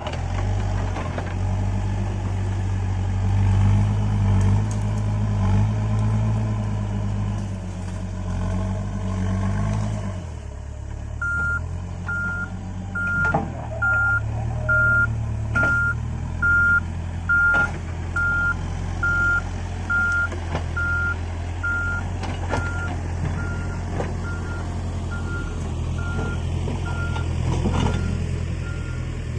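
Diesel engine of a Case 580 Super N backhoe loader running hard under load, easing off about ten seconds in. A reversing alarm then beeps evenly about twice a second, with a few sharp knocks in between.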